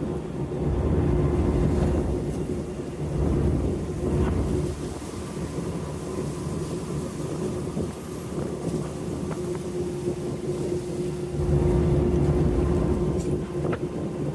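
A sightseeing icebreaker's engine drones with a steady hum. Three times, about a second in, about three seconds in and near the end, a low rumble swells as the hull crunches through drift ice.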